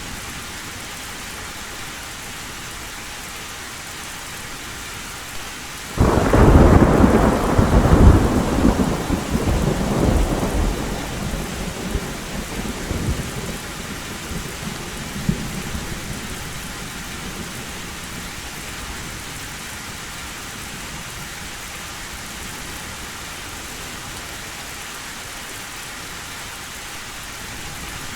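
Heavy rain falling steadily on a metal roof, with a sudden loud thunderclap about six seconds in that rumbles on and fades away over several seconds.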